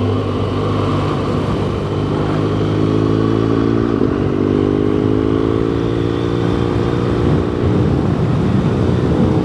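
BMW R1200GS boxer-twin engine and SC Project exhaust running steadily under way, recorded on the moving bike; the engine note rises slightly about halfway through, then holds.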